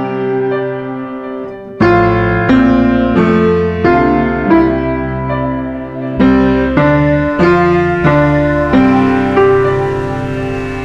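Slow, gentle piano music: held low chords under a melody of single notes struck roughly every two-thirds of a second, each ringing and fading. It opens on a chord dying away, and the playing picks up a little under two seconds in.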